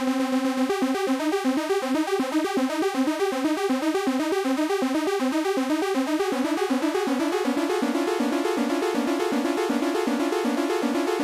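Arturia MicroFreak synthesizer playing a rapid arpeggio on its Noise Engineering SawX oscillator in Unison Mode, all oscillators stacked and detuned on each note. It opens on one held note, and the fast stepping pattern begins about a second in.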